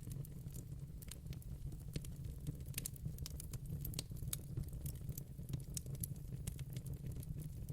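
Wood fire in a fireplace crackling: irregular sharp pops and snaps several times a second over a steady low rumble of the burning fire.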